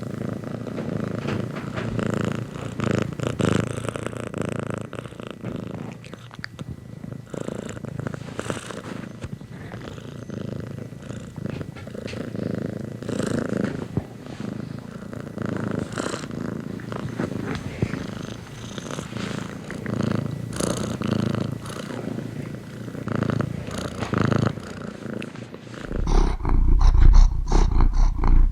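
Domestic cat purring close up, a continuous low rumble that swells and eases every few seconds with its breathing. Near the end a louder, deeper rumble takes over.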